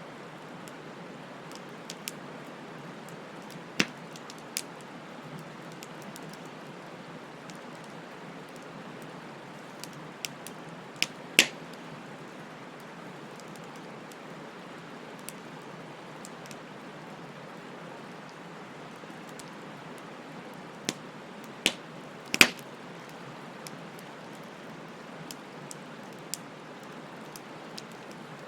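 Bonfire crackling: a steady hiss of burning wood with scattered sharp pops, a few about 4 seconds in, a cluster around 10 to 11 seconds, and the loudest pair around 21 to 22 seconds.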